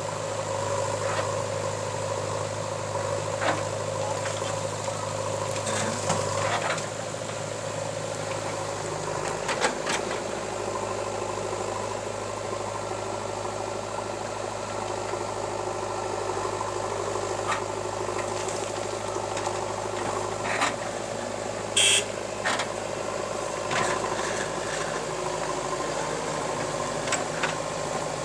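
Diesel engine of heavy earthmoving machinery running steadily at idle, with its low note shifting slightly about six seconds in. Scattered sharp knocks and clanks sound over it, the loudest about three quarters of the way through.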